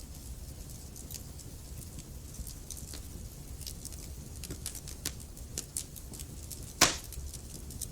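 Wood fire crackling in a fireplace: irregular sharp snaps over a steady low rumble, with one loud pop about seven seconds in.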